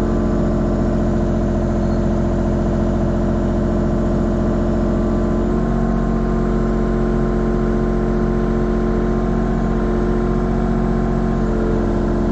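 Mini excavator's diesel engine running steadily, its note shifting slightly about five and a half seconds in.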